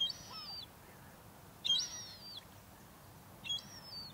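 A bird calling three times, evenly spaced about every second and a half to two seconds. Each call is a high, thin whistle that jumps up and then slides slowly down over about half a second.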